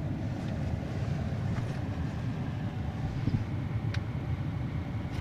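Automatic car wash machinery running, heard from inside the car's cabin as a steady low rumble, with a single click about four seconds in.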